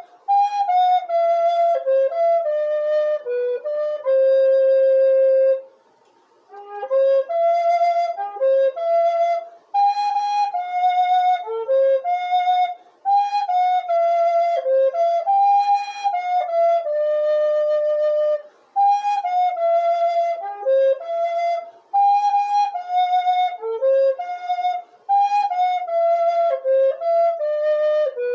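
Solo flute playing a hymn melody, one note at a time. It pauses briefly for breath, the longest pause about six seconds in.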